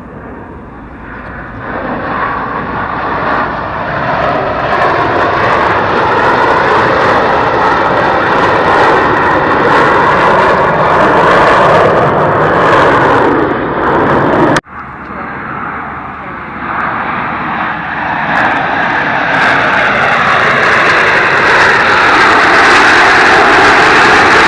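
Loud aircraft engine roar that swells as aircraft fly past. It cuts off abruptly about two-thirds of the way through, then builds again.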